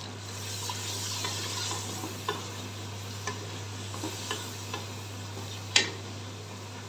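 Spinach masala with freshly added yogurt sizzling in hot oil in a pressure-cooker pot while a wooden spoon stirs it. The sizzle is strongest in the first couple of seconds. The spoon knocks against the pot about five times, the loudest near the end.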